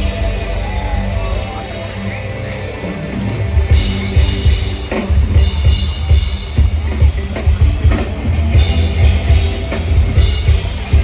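Live rock band playing amplified through a PA. Drum kit and bass come in strongly about four seconds in and keep a steady heavy beat.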